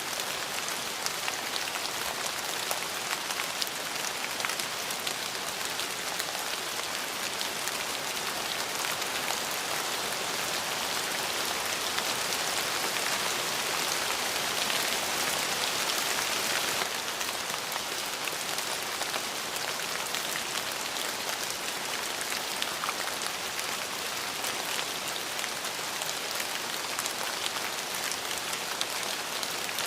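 Steady rain falling, a continuous hiss dotted with the ticks of individual drops. A slightly heavier stretch in the middle cuts back suddenly about 17 seconds in.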